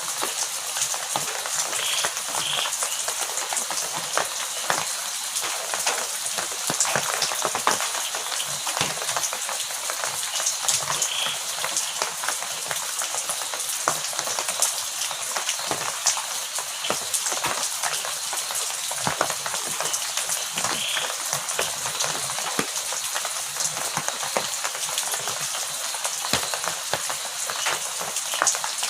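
Heavy rain falling steadily: a dense, even hiss of drops with many sharp individual drop hits.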